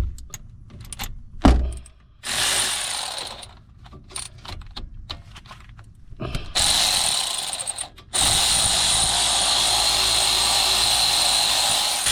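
A power tool whirring as it spins out the 14 mm brake caliper bolts: one short run about two seconds in, another just past six seconds, and a steady run from about eight seconds to the end. Between the runs come sharp clicks and light metal knocks of the socket and bolts.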